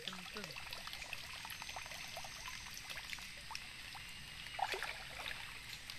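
Shallow stream water trickling and splashing, with many small irregular plinks and drips over a steady rush.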